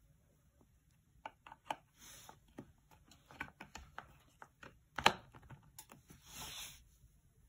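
Irregular sharp clicks and light knocks, with two short rustles; the loudest is a single sharp click about five seconds in.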